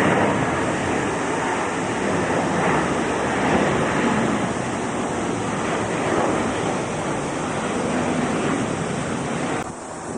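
Jet airliner engines at takeoff thrust, a loud steady roar with no clear tone, which drops off abruptly near the end.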